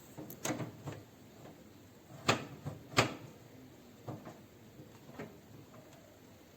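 A series of about six sharp clicks and knocks, the two loudest close together near the middle, as of a microwave oven's door and body being handled.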